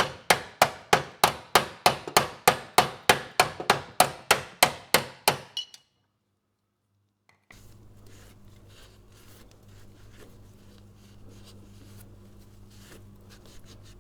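Rapid, evenly spaced hammer blows on metal, about four a second, driving a stuck blade adapter off a mower crankshaft; they stop about five and a half seconds in. After a short silence, a faint low hum with light handling sounds follows.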